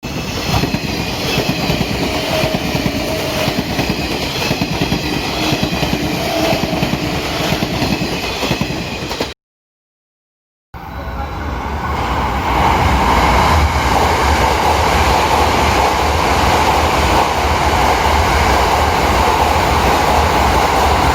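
Train running past, its whine wavering over the rumble of the wheels. The sound cuts off about nine seconds in for a second of silence, then a second train runs, louder and with a heavier low rumble.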